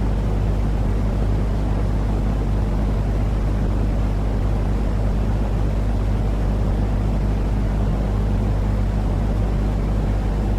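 Steady, unchanging low rumbling noise with a faint hum underneath, a continuous sleep-noise track for calming babies.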